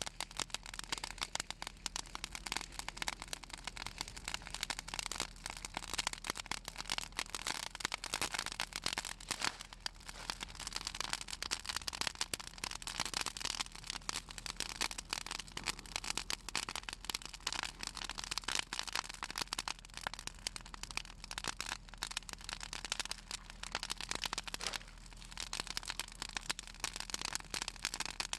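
Fallen branches of pruned southern magnolia burning in a bonfire, crackling with dense, rapid pops and snaps throughout; the oil in the magnolia wood and leaves makes it crackle.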